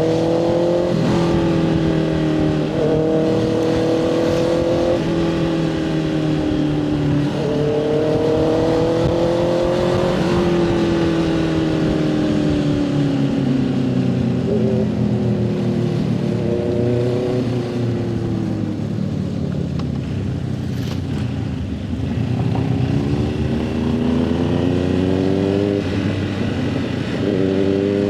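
Motorcycle engine pulling through the gears: its pitch climbs and drops back at each upshift over the first ten seconds, sinks slowly as the bike slows, then climbs again near the end. Steady wind and road rush runs underneath.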